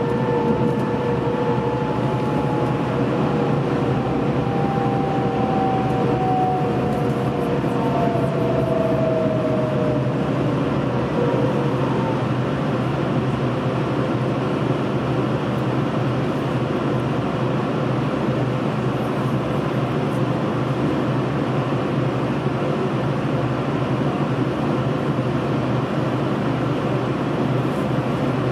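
Passenger train heard from inside the carriage, running with a steady rumble as it slows into a station; a whine falls in pitch over about the first ten seconds.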